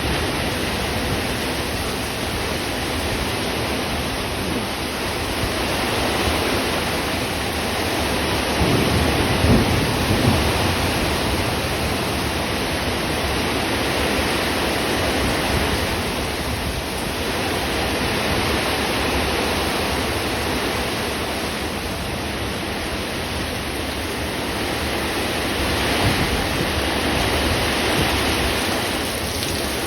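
Thunderstorm: steady heavy rain, with a rumble of thunder about nine seconds in.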